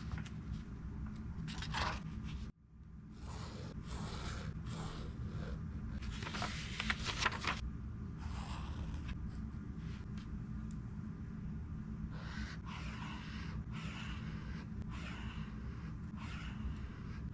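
Writing on a book page: short scratchy strokes follow one after another, with a denser run of them around six to seven seconds in. The sound cuts out briefly about two and a half seconds in. A steady low hum runs underneath.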